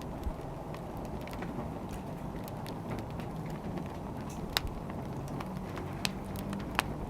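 Wood fire burning with a steady low rumble and a few sharp pops of crackling wood, the clearest about halfway through and near the end.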